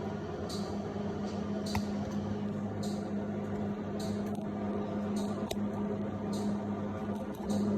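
A steady low hum, with short rustling handling noises about once a second and a few light clicks.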